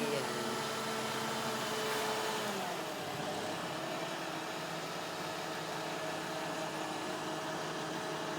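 A motor engine running steadily, its tone dropping slightly about two and a half seconds in and then holding level.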